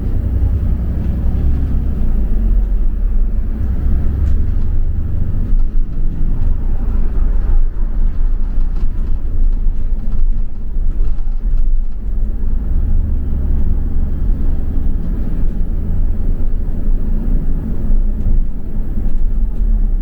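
London double-decker bus on the move, heard from on board: a steady, loud low rumble of engine and road noise that swells and eases a little as the bus goes.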